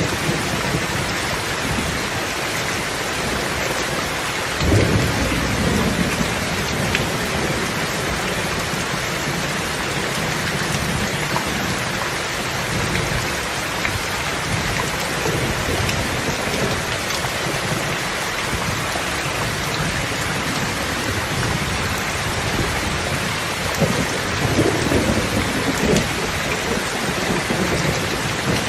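Steady heavy rain falling, with a low rumble of thunder that breaks in suddenly about five seconds in and fades, and another rumbling spell near the end.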